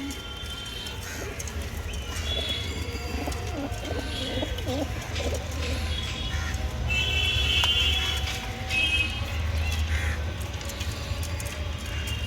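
Domestic pigeons cooing, with higher, sharper chirps from other birds and a steady low hum underneath.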